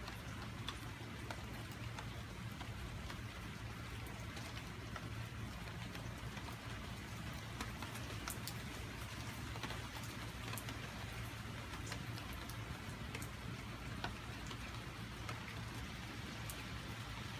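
Steady rain falling, with many individual drops ticking sharply close by on the wet wooden porch railing.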